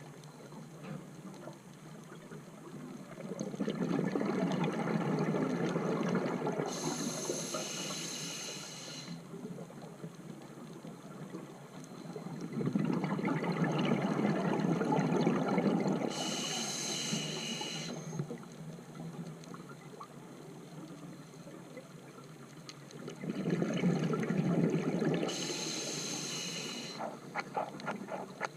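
Scuba diver breathing through a regulator underwater: three slow breaths about ten seconds apart, each a long rush of exhaled bubbles with a short high hiss from the regulator.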